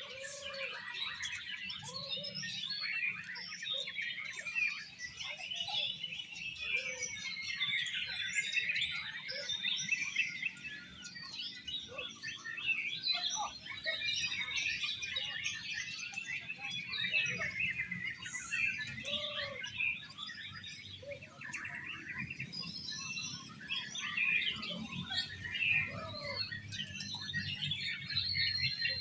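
Oriental magpie-robins (kacer) singing at a songbird contest: a dense, unbroken stream of fast, varied whistles and chattering phrases, several birds overlapping.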